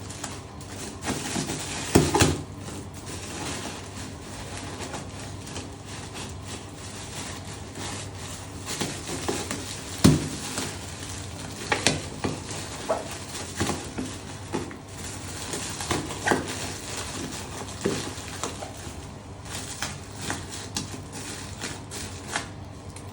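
Hands working on a leather bag: irregular taps, knocks and light rubbing of objects being handled. The two loudest knocks come about 2 and 10 seconds in, followed by a run of smaller clicks.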